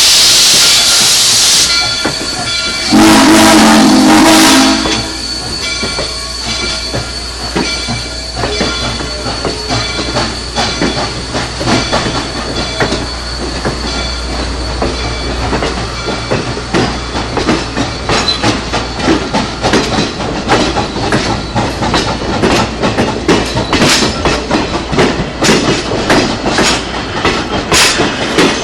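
Steam locomotive: a hiss of released steam that cuts off about two seconds in, then a short loud whistle blast about three seconds in. After that comes a steady run of rhythmic beats over a low rumble as the train moves.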